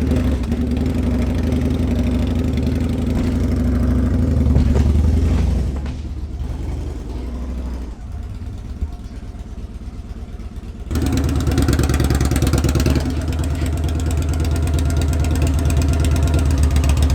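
Motorcycle engine running. It is steady at first, goes quieter for a few seconds around the middle, then comes back louder with a rapid even pulse about eleven seconds in.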